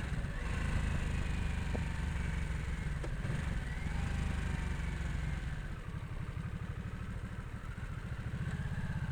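Harley-Davidson Nightster 975's V-twin engine running at low revs after downshifting for a red light. From about halfway it drops a little in level and its firing pulses come through as an even beat.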